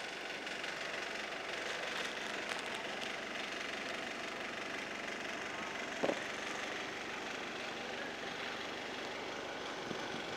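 Steady outdoor background noise, with a short sharp knock about six seconds in.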